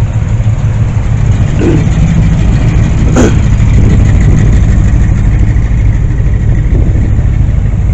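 Car engines running at close range with a heavy low rumble, and a sharp pop a little over three seconds in.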